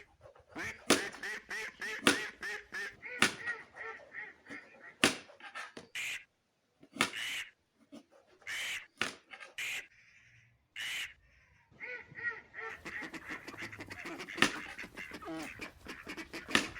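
Ducks quacking in a rapid string of short, harsh calls that stop and start, with a couple of brief silent gaps midway.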